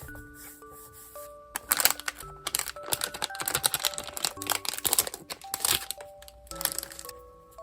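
Dense crinkling and rustling of paper craft materials handled close to the microphone, starting about one and a half seconds in and stopping near the end. Soft background music of single held notes plays throughout.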